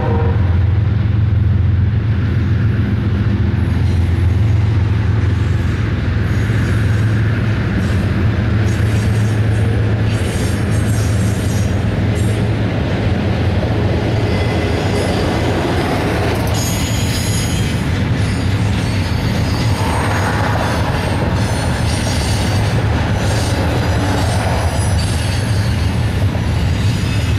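Double-stack intermodal freight train's well cars rolling past, a loud steady rumble with the clatter of steel wheels on rail. Intermittent wheel squeal comes in over the second half.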